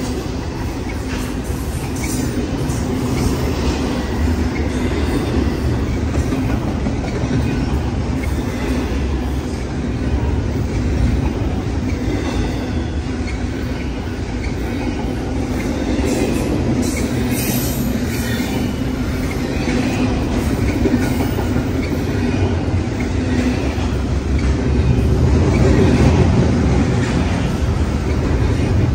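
BNSF double-stack intermodal freight cars rolling past: a steady rumble and clatter of steel wheels on the rails, growing a little louder near the end.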